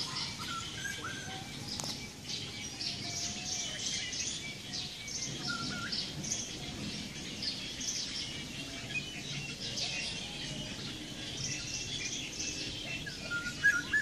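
Songbirds chirping in trees: a dense, steady chatter of short high chirps. A few clearer whistled notes stand out about a second in, near the middle, and loudest near the end.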